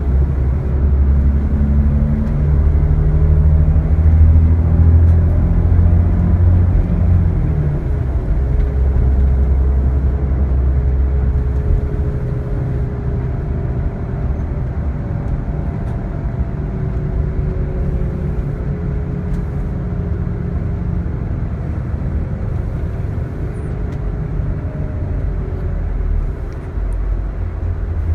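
Scania L94IB bus's nine-litre diesel engine running under load, its low drone strongest for the first several seconds. The engine note drops about eight seconds in and eases again around twelve seconds, then carries on more quietly.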